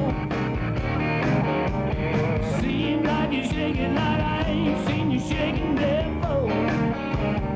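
Beach music song with a steady dance beat: drums, bass and electric guitar, with a wavering melody line over the band.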